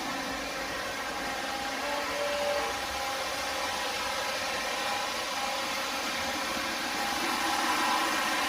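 O-scale Lionel Legacy SD70ACe model diesel locomotives running steadily around three-rail track, a continuous rumble of wheels and motors with a faint steady hum.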